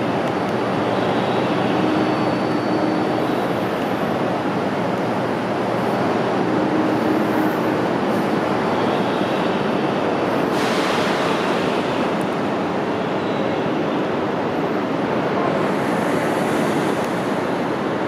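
Steady rushing noise from an E2 series Shinkansen train at the platform, with a short hiss about ten seconds in.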